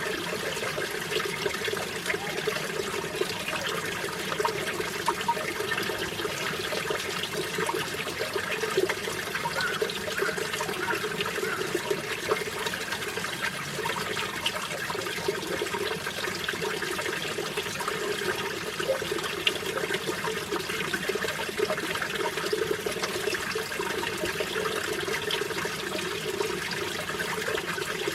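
Mountain valley stream flowing steadily: a continuous rush of water with many small splashes, unchanging throughout.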